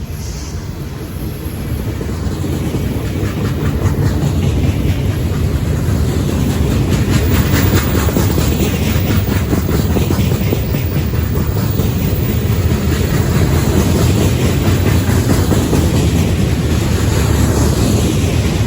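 Freight train rolling past close by, with a steady low rumble and rapid clickety-clack of steel wheels over the rail joints. It grows louder over the first few seconds, then holds steady.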